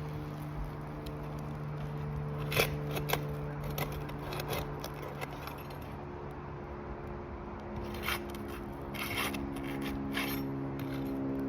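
Asphalt roof shingles being loosened and their roofing nails pried out: scattered short scrapes and clicks, over a steady low hum.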